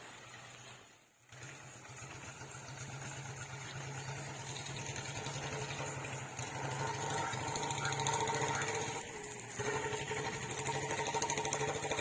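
A small engine running steadily with a fast, even beat, consistent with the motor driving the irrigation water supply. The sound drops briefly about a second in, then grows gradually louder.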